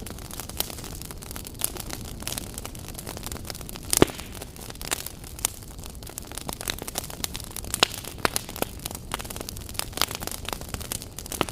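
Wood fire in a fireplace burning and crackling: a steady hiss with irregular sharp pops, the loudest about four seconds in.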